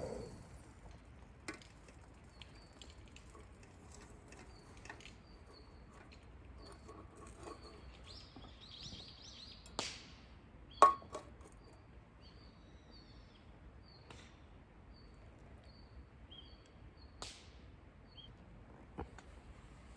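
Quiet outdoor ambience: a small bird repeats short, high chirps, with scattered sharp clicks and one louder crack about eleven seconds in.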